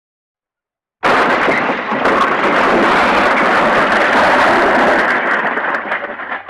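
A library crash sound effect: it bursts in suddenly about a second in, a dense, loud din of smashing and clattering debris lasting about four seconds, then thins into scattered rattles and dies away near the end.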